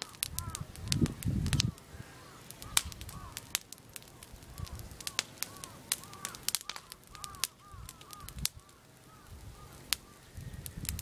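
Burning trash crackling with scattered sharp pops and snaps, over a steady run of short, repeated chirps. There is a brief low rumble about a second in.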